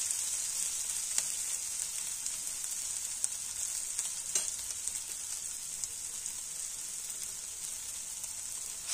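Onions and spices frying in mustard oil in a pan, a steady high sizzle, with a few faint clicks.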